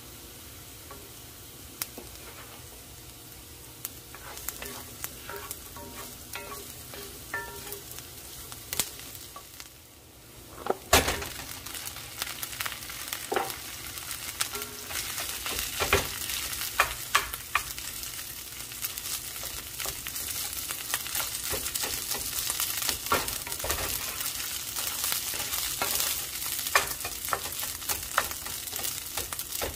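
Diced onion sizzling in hot oil in a cast-iron skillet. About eleven seconds in comes a loud knock, and the rice with vegetables then sizzles louder as a wooden spoon stirs and scrapes it around the pan, with frequent clicks.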